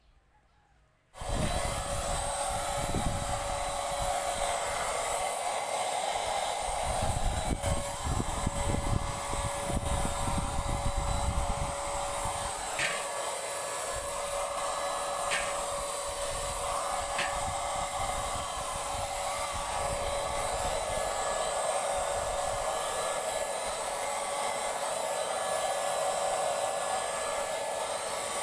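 Paint Zoom handheld electric paint sprayer switched on about a second in and running steadily, with a few short clicks in the middle.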